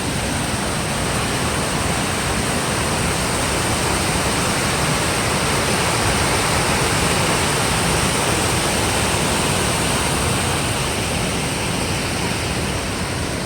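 Waterfall: a loud, steady rush of falling water, swelling slightly midway.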